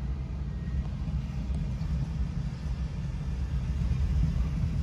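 Kansas City Southern business train passing a grade crossing, its F-unit locomotives and then its passenger cars making a steady low rumble that grows a little louder toward the end, heard from inside a car's cabin.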